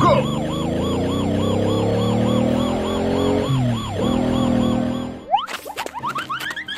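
A fast-warbling, siren-like tone over a droning hum that slowly falls in pitch, dips and rises again about four seconds in, and cuts off suddenly after about five seconds. Quick rising whistle-like chirps follow.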